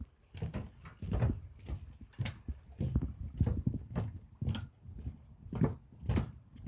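Something sturdy creaking and crunching under repeated strain, in uneven short creaks with knocks roughly twice a second.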